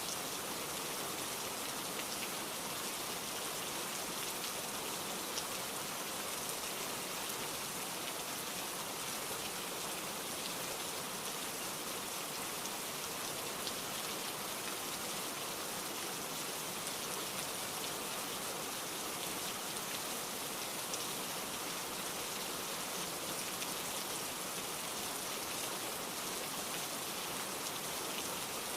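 Steady downpour of rain, with an occasional single drop ticking out above the constant hiss.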